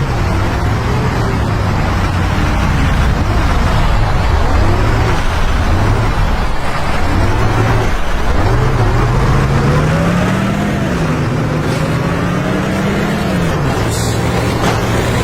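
Heavy truck engine running under load, its pitch climbing and then dropping back several times as it pulls.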